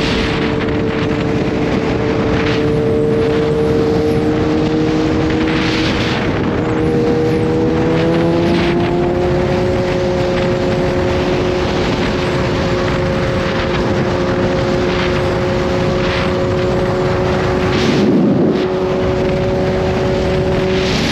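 Kawasaki Z H2's supercharged inline-four engine running at an easy cruise, its note creeping up slowly, stepping to a new pitch about eight seconds in, then holding steady. Air-rush noise runs underneath throughout, with a brief louder swell near the end.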